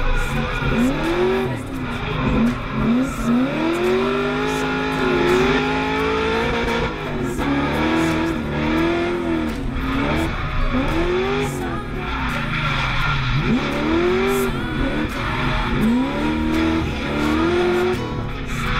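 Drift car engine revving up and down over and over as the car slides, with tyre squeal, heard from inside the cabin.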